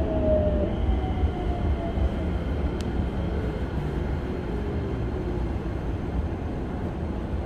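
Toyo IGBT-VVVF inverter of a Keikyu 1000 series train whining and falling in pitch as the train slows, fading out after about five seconds, over the steady low rumble of the wheels on the rails, heard from inside the car.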